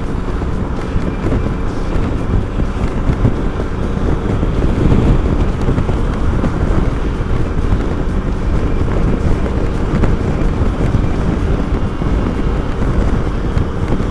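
Motorcycle engine running steadily under way, with heavy wind buffeting on the microphone.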